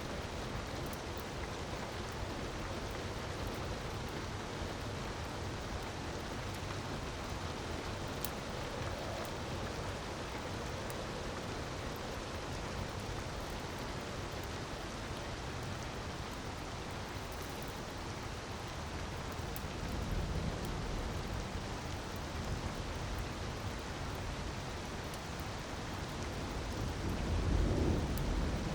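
Steady rush of falling water with faint fire crackles over it. A low rumble swells about two-thirds of the way through and again near the end.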